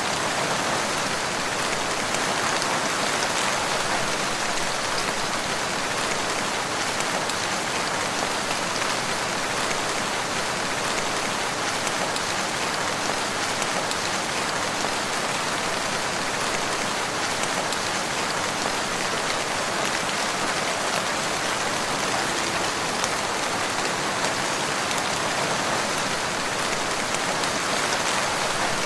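Steady rain falling, a dense even patter of drops on surfaces with no thunder or breaks.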